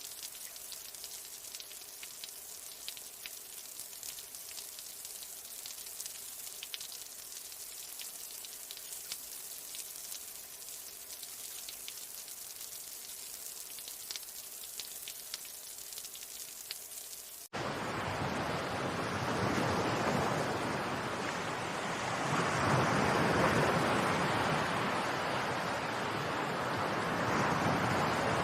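A soft, high hiss full of fine crackles, then an abrupt cut about two-thirds of the way through to loud rushing water that swells and ebbs like surf.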